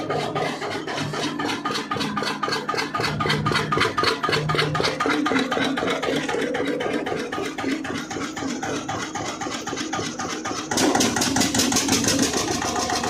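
Old Eicher diesel engine running with a fast, even knocking beat. About eleven seconds in it turns louder and sharper.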